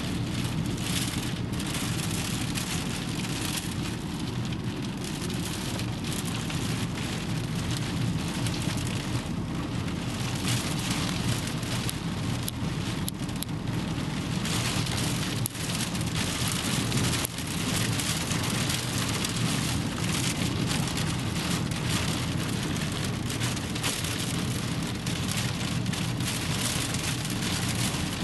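Desert sandstorm with wind and rain: a steady, loud rushing of wind and rain, with heavy wind rumble low down.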